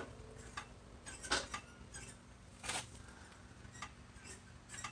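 A few light, irregular clicks and taps from hands handling parts of a small go-kart engine; the engine is not running.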